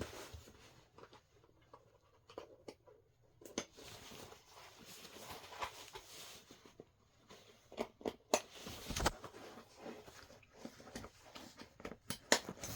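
Faint rustling with scattered clicks and taps as a pair of knee pads is handled and put on.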